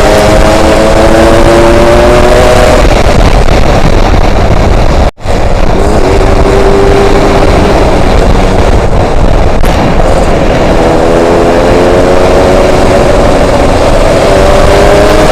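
Yamaha RX-King's single-cylinder two-stroke engine pulling under way, its note climbing in pitch three times with drops between, under heavy wind noise on the microphone. The sound cuts out briefly about five seconds in.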